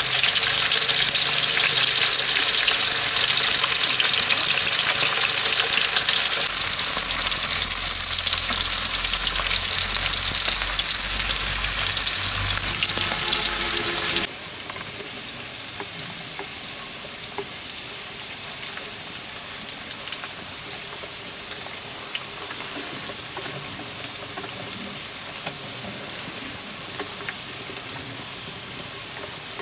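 Potato slices frying in hot oil in a wide pan, a steady sizzle. It drops suddenly in loudness about halfway through.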